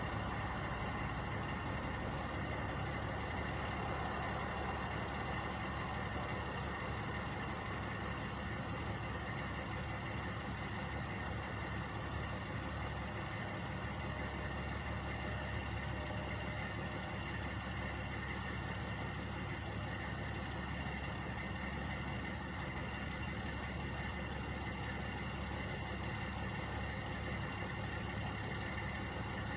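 Truck engines idling steadily, a constant low hum with a mix of steady tones and no change in speed.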